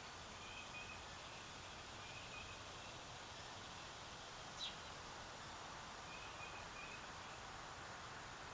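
Faint outdoor ambience with a steady hiss and distant bird chirps: short high notes repeating every couple of seconds, and one brief sharp downward-sweeping call about halfway through.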